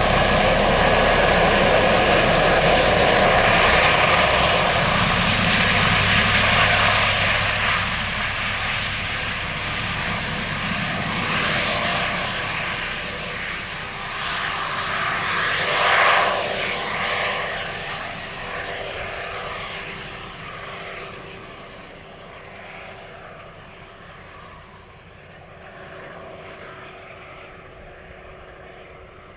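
Five-bladed Airbus H145 D3 helicopter flying away, its turbine and rotor sound fading steadily with a brief swell about halfway through.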